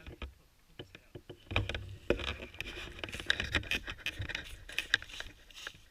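Irregular crunching and rustling with low thumps, like footsteps moving through dry leaves and undergrowth, heaviest from about a second and a half in until near the end.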